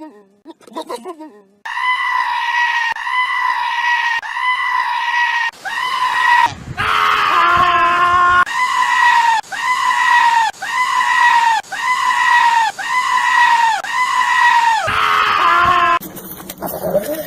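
Goat bleating loudly, screaming in a long string of high-pitched calls about one a second, run almost back to back.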